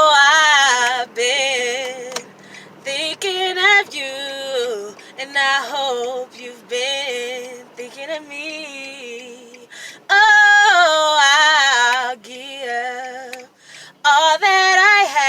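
A woman's voice singing a melody in phrases with short breaks, with little or no instrumental backing.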